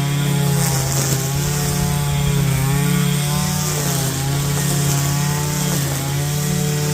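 Small gasoline engine of lawn equipment running steadily at working speed. Its pitch dips slightly and recovers a few times, as under changing load.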